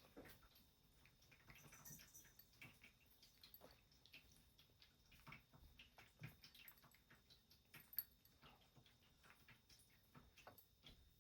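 Near silence with faint, irregular crunching clicks from cats eating dry food, and one sharper tick about eight seconds in.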